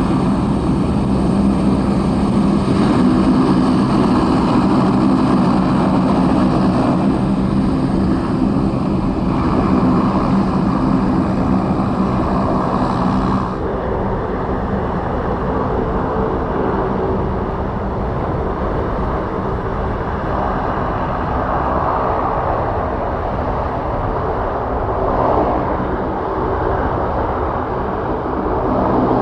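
Aircraft engines running steadily. About thirteen seconds in, the high hiss drops away abruptly and a lower steady engine sound carries on.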